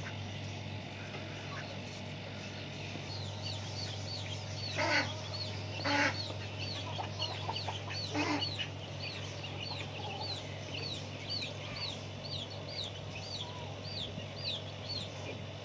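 Poultry in a pen: a long run of short, high peeps, about two a second, begins a few seconds in, and three louder, harsher calls from the adult birds come near the middle. A steady low hum runs underneath.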